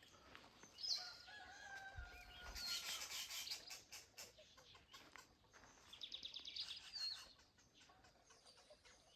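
Faint morning birdsong of chirps and a quick trill, with a rooster crowing once, long and level, from about a second in. A patch of soft clicks and crackle comes in the middle.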